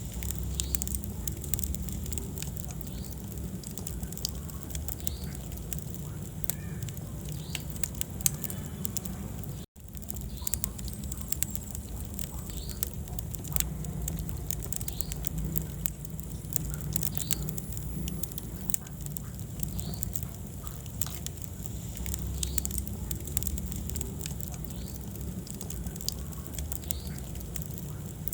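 Wood fire in a fireplace crackling and popping, with many sharp snaps of varying loudness over a steady low rumble of the flames. The sound cuts out for an instant about ten seconds in.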